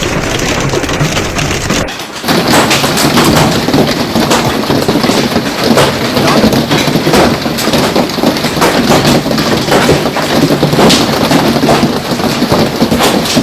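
A hailstorm: hail and rain pelting down, a dense, continuous clatter of countless small impacts, with a brief break about two seconds in.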